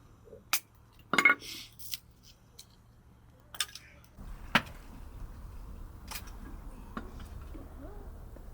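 Kitchenware clinking and knocking: about six separate strikes of pots, dishes or utensils, the loudest about a second in with a short ring. A low steady rumble comes in about four seconds in.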